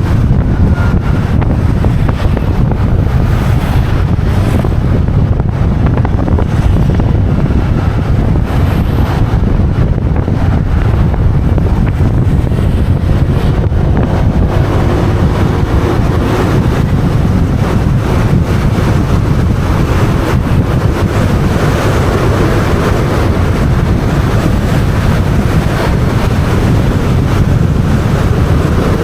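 Heavy wind buffeting the microphone of a moving motorbike, with the bike's engine and road noise underneath.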